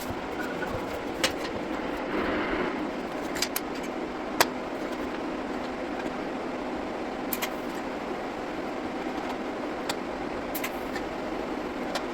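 Steady running noise of a motor vehicle, with a faint constant hum and a few sharp clicks scattered through it.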